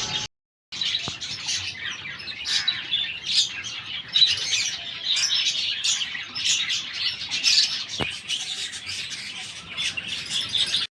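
Many small pet birds chirping together: a dense, overlapping run of short high chirps. The sound cuts out for about half a second just after the start.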